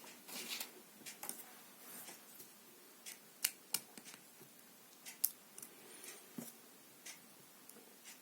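LEGO plastic bricks clicking as they are handled and pressed together: a scatter of sharp, irregular clicks, the loudest about three and a half and five seconds in.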